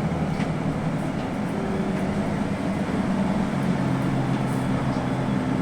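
Scania N280UB city bus's compressed-natural-gas engine running as the bus drives, heard from inside the passenger cabin together with road noise. The engine note changes about three and a half seconds in.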